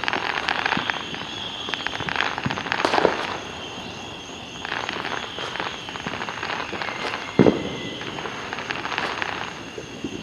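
Fireworks going off: bursts of rapid crackling, with two louder bangs, one about three seconds in and one past seven seconds.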